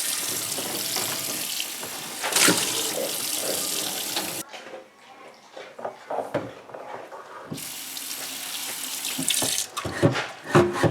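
Water running from a sink tap while a bare, freshly sanded cast iron pan is washed. The tap cuts off about four and a half seconds in and there are a few knocks of the pan. The water runs again for about two seconds, then the pan knocks several times near the end.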